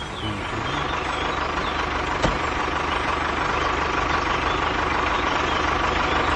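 Tractor engine running steadily, with one sharp click about two seconds in.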